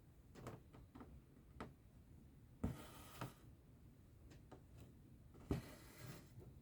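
Cross-stitch needle pricking through the fabric with a sharp click, then thread drawn through with a short rasp, twice, with faint ticks of the needle in between.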